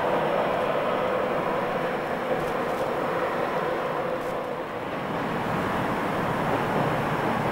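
Electric express train (a Class 91-hauled InterCity 225 set) rolling steadily across a steel lattice railway bridge, its wheels giving a continuous rumble. About five seconds in the sound dips and changes to a lower, duller rumble.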